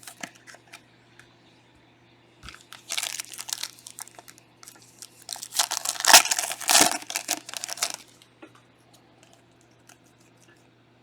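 Plastic trading-card pack wrapper being torn open and crinkled by hand, in two crackly bursts, the second longer and louder, a few seconds in.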